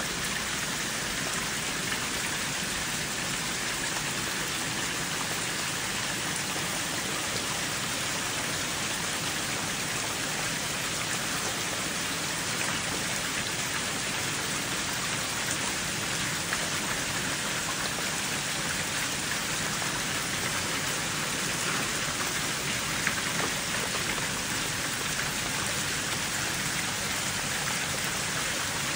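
Heavy rain falling steadily, a dense even hiss of drops striking pavement, grass and parked vehicles.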